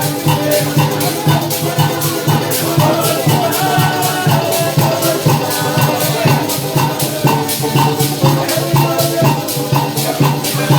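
Live parang music: maracas shaking in a steady, even rhythm over low sustained bass notes.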